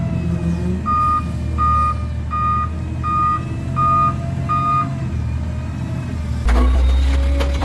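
Garbage truck backing up: its reverse alarm beeps six times, about one and a half beeps a second, over the steady running of its engine. Near the end a louder low rumble from the truck comes in.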